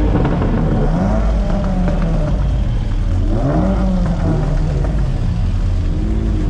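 Car engine being revved several times, its pitch climbing and dropping again and again over a steady low exhaust rumble.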